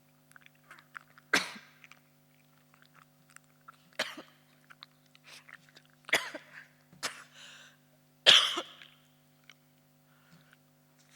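A person coughing harshly five times, in sudden bursts one to two and a half seconds apart; the first and last are the loudest. A faint steady hum lies underneath.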